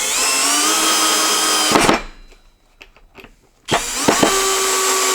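Power drill driving wood screws: two runs of about two seconds each, the motor whine rising in pitch as it spins up, then steady, with a pause of about two seconds between them.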